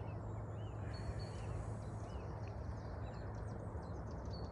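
Faint bird chirps over steady low outdoor background noise, a few short calls in the first second and a half and another near the end.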